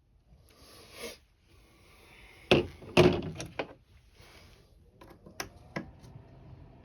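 Handling noises from working on the camper window: rustling, then several sharp knocks and clatters, the loudest about two and a half to three and a half seconds in, and a few lighter clicks near the end.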